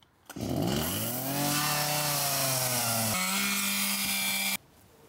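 Chainsaw engine running as it cuts wood: its pitch dips and climbs back, then holds steady at a higher pitch before cutting off abruptly near the end.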